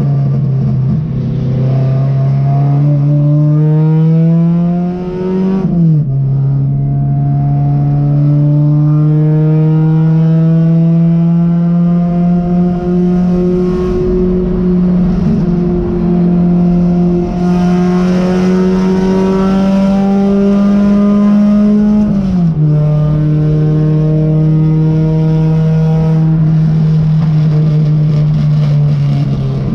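Race car's engine heard from inside the cockpit under power. The revs climb, fall sharply at a gearshift about six seconds in, then climb slowly for about sixteen seconds before falling again and holding steady.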